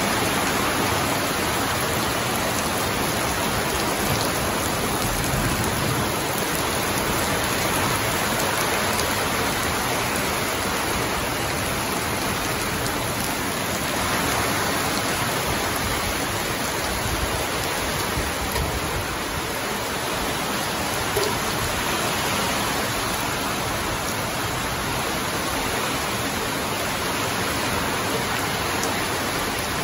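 Heavy rain pouring steadily on palm fronds and dense foliage: an even, unbroken hiss of a downpour.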